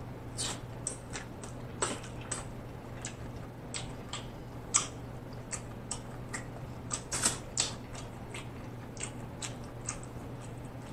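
Close-up wet chewing and lip-smacking of seafood meat: irregular sharp mouth clicks and smacks, a few to several a second, over a steady low hum.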